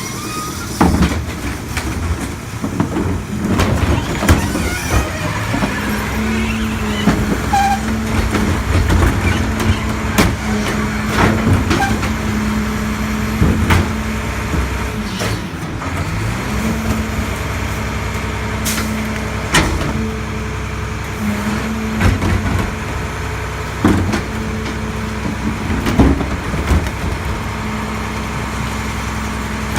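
A diesel Mack LEU garbage truck with a Heil body running, with a steady low drone that dips and comes back around the middle. Scattered clanks and knocks sound over the engine.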